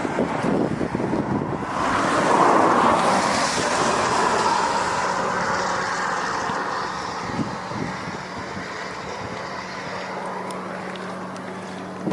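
Wind rushing over the microphone, swelling about two seconds in and slowly easing off, over a steady low hum.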